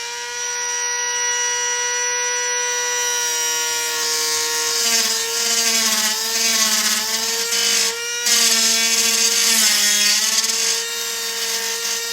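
Electric drill driving a 1-1/2 inch hole saw, its motor whining steadily at first and then wavering in pitch as the saw loads up cutting into the panel. The drill stops briefly about eight seconds in, then starts again.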